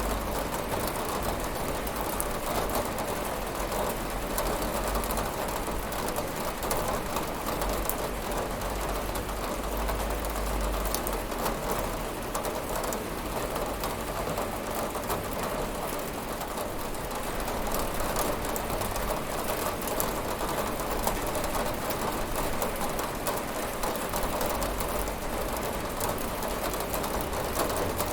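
Steady rain falling on a window: a dense, even patter with scattered sharper drop ticks over a low rumble.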